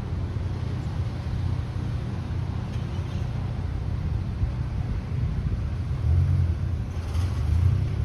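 A steady low rumble that swells from about six seconds in, with a brief hiss around seven seconds.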